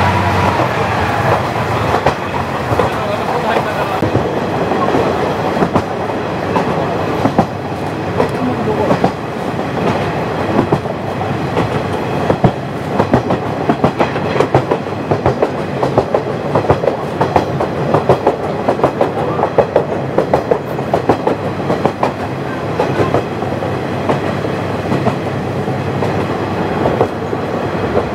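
KiHa 40 diesel railcar under way, with a steady run of wheel-on-rail noise and a dense clatter of wheels over rail joints.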